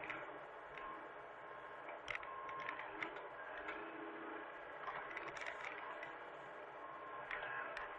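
Hitachi mini excavator working: a steady machine drone with scattered scrapes and knocks.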